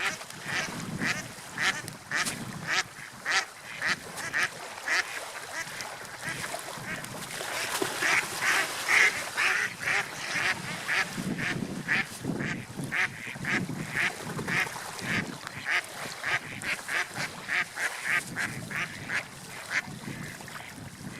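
Gulls calling over and over in quick, short cries, several a second, over a steady background wash of noise.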